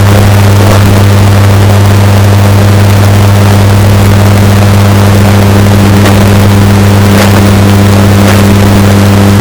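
Washing machine running: a steady, unchanging low hum over a constant noisy wash, with a few faint clicks. The audio is heavily bass-boosted and distorted, pushed to full loudness.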